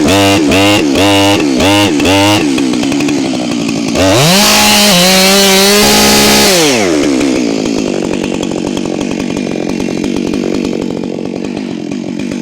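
Two-stroke chainsaw with its throttle blipped rapidly, about twice a second, for the first couple of seconds. It then revs to full throttle for nearly three seconds and drops back to a low, even idle.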